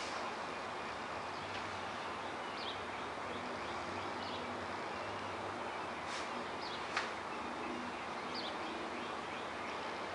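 Steady outdoor background hiss with short, high bird chirps every second or two, and one sharp click about seven seconds in.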